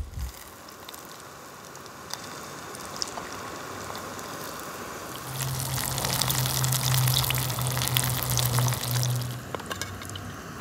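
Food frying: a steady sizzle with many small crackles, louder for about four seconds in the middle, with a low hum underneath then.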